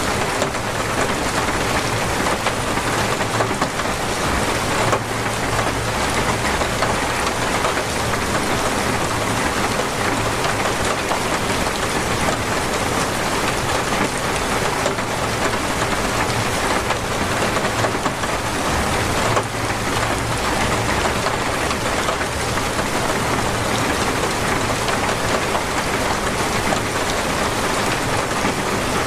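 Torrential rain falling steadily and densely, drumming on surfaces, with a faint low rumble underneath.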